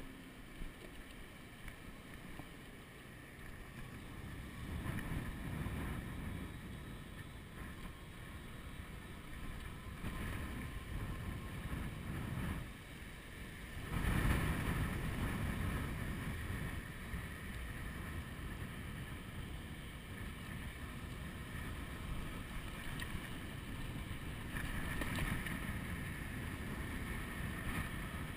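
Wind buffeting the camera's microphone as an electric bicycle is ridden, a low rumble that swells sharply about 14 seconds in, with faint steady tones above it.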